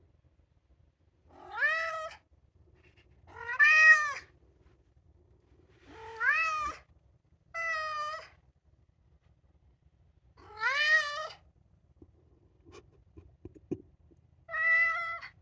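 Maine Coon cat meowing six times in a row, each call long and rising then falling in pitch, with pauses of one to three seconds between them: the insistent calling of a cat asking to be let outside.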